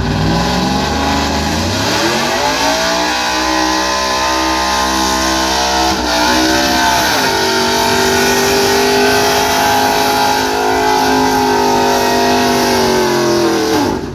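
Gasoline pickup truck's engine at high revs pulling a weight sled. The revs climb over the first couple of seconds, sag and recover around the middle, then hold steady before falling off sharply near the end as the pull finishes.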